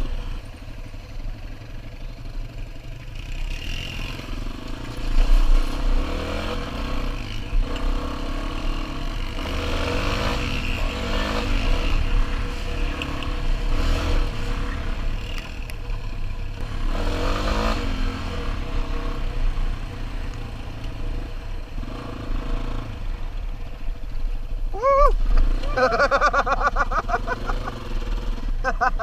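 Dual-sport motorcycle engine running and revving up and down repeatedly as the bike is ridden off-road, with a steady low rumble underneath.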